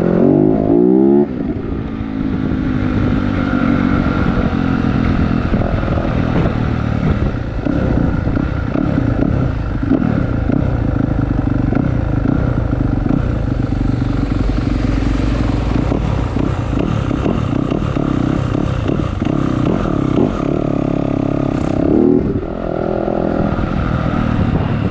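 Yamaha YZ250 two-stroke motocross bike engine running, revved briefly in the first second or so and again near the end, otherwise running steadily.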